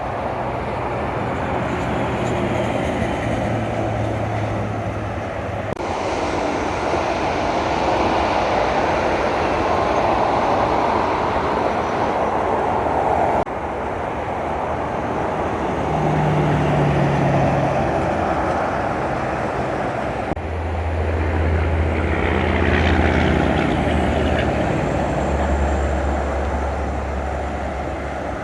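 Heavy trucks driving past on a road: steady tyre noise with the low drone of their diesel engines. The sound is cut together from several short clips, changing abruptly about 6, 13 and 20 seconds in.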